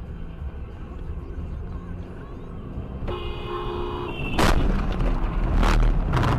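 Car on the road with a low rumble; a horn sounds for about a second, then loud bangs of a collision come about four and a half and nearly six seconds in.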